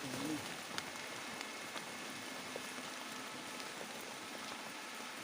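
Steady rain falling, a continuous hiss with scattered drops ticking.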